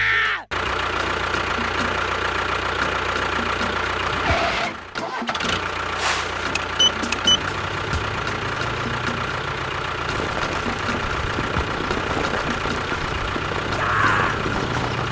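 An engine running steadily, with a brief break about five seconds in.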